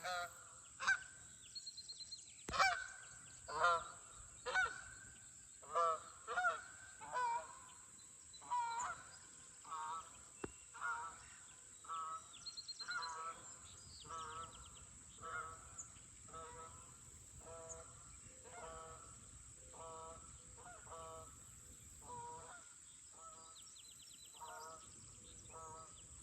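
A flock of geese honking as it flies overhead. The honks come about once a second, loudest in the first several seconds, then fade gradually as the flock moves away.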